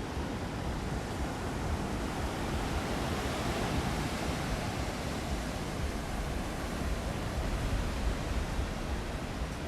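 Steady wash of ocean surf and wind, with gusts buffeting the microphone in a low, fluttering rumble.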